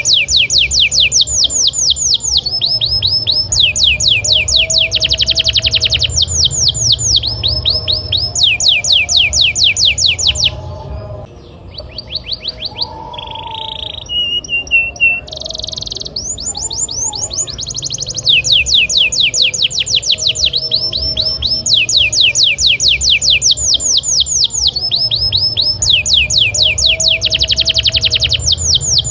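Canary singing a fast rolling song: long trills of rapidly repeated sweeping whistled notes, about ten a second. Near the middle the trills break off for a few seconds into softer, sparser single notes, then resume. A low steady hum runs underneath.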